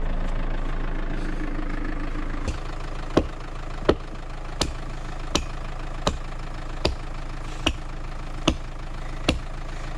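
Land Rover Freelander engine idling steadily. A few seconds in, a sharp click starts repeating evenly, a little more than once a second.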